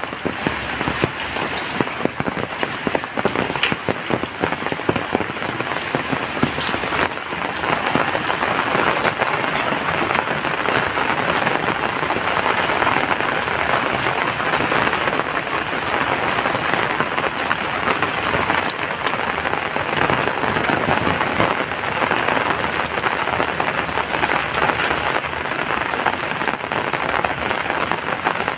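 Heavy rain falling steadily: a dense, even patter with many sharper individual drops splashing through it.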